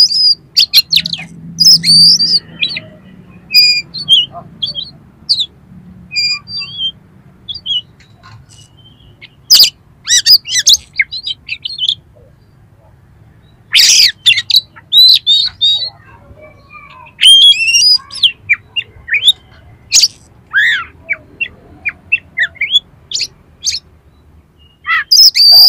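Oriental magpie-robin (kacer) singing in loud bursts of varied chirps, whistles and harsh notes, with short pauses between phrases. It is a full, rough-noted song of the kind used to provoke other magpie-robins.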